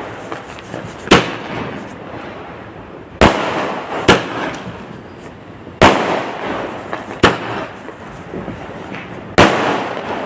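Fireworks exploding: six loud bangs, one every second or two, each followed by a fading crackle.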